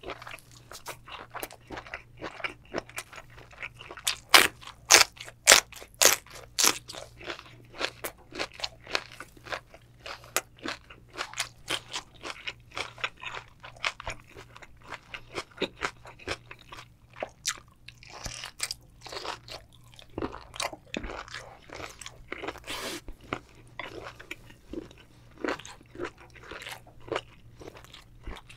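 Close-miked chewing of chewy horned turban shell (sea snail) meat and spicy noodles: a dense, uneven run of sharp, wet mouth clicks.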